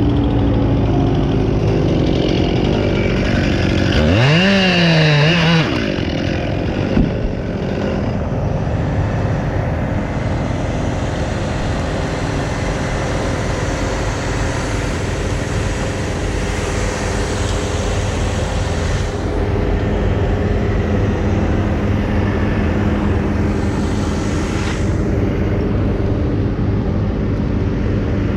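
Engine running steadily. About four seconds in, a motor revs up and down briefly for a couple of seconds.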